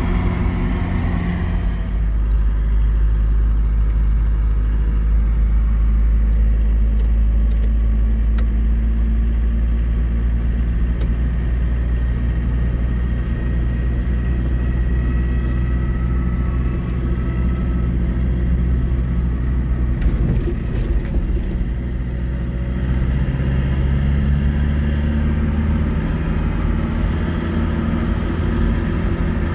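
Motor vehicle under way: a steady low engine and road rumble, its pitch shifting about two seconds in and again about two-thirds of the way through.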